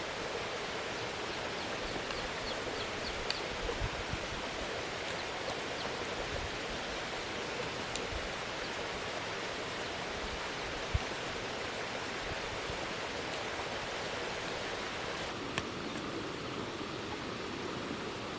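Steady outdoor rushing noise with a few faint knocks.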